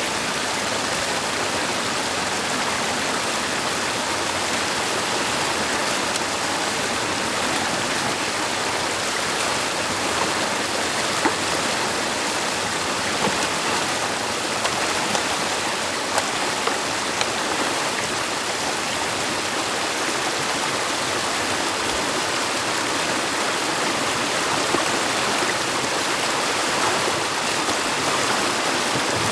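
Stream water rushing steadily at a beaver dam, with a few faint knocks in the middle.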